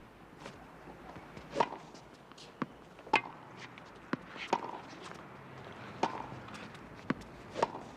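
Tennis rally: sharp pops of racquets striking the ball and the ball bouncing on the court, about seven hits spaced roughly a second apart, with footsteps on the court between them.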